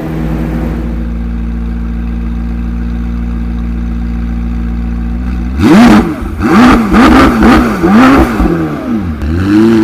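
McLaren 765LT's twin-turbo V8 idling steadily, then revved hard about five and a half seconds in: a quick series of about seven sharp revs, each rising and dropping back.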